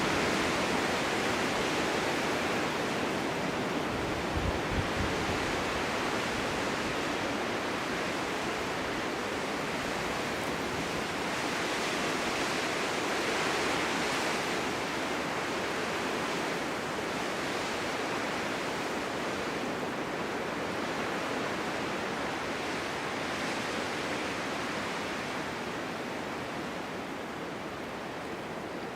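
Winter wind blowing through a forest in a steady rush that swells and eases a little, with a brief low thump about four to five seconds in.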